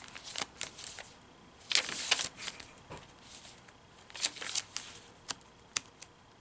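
Paper rustling and crisp clicks from handling the pages, cards and tags of a handmade paper junk journal. There is a longer rustle about two seconds in and a few sharp single ticks later.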